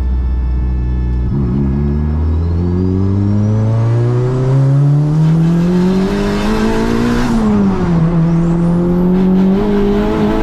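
Turbocharged, engine-swapped Honda Brio accelerating hard. The engine note climbs steadily for about six seconds, drops sharply at an upshift, then climbs again, with a high whine rising alongside each pull.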